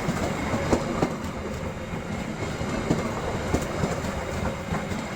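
A train running past close by, steady rumble with its wheels knocking over rail joints in an uneven clickety-clack.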